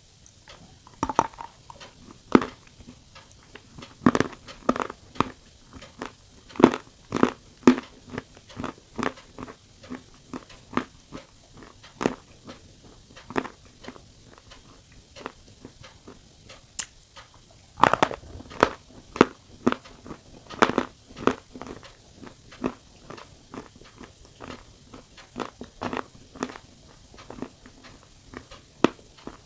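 A person biting and chewing crunchy cookies close to the microphone: a continual run of sharp crunches, with louder clusters of bites about 4, 7, 18 and 21 seconds in.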